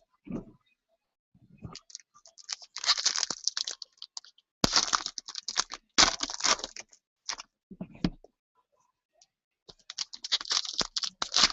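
Card packaging, such as foil pack wrappers or box wrap, being crinkled and torn in several short crackly bursts, with a few soft thumps of handling in between.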